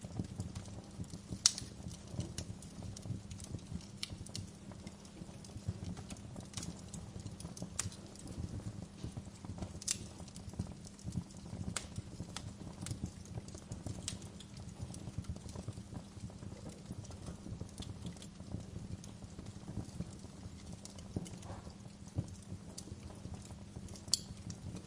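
Wood fire crackling in a fireplace: irregular sharp pops and snaps over a steady low rumble of burning, with the loudest pops about a second and a half in and near the end.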